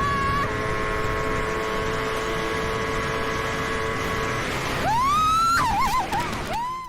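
Kawasaki ZX-10R sport bike's inline-four engine running at a steady speed, then about five seconds in revving up in a rising whine that wavers up and down, rising again just before it cuts off abruptly.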